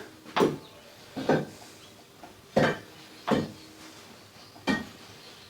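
Five short, sharp knocks at irregular intervals, roughly a second apart, over a quiet background.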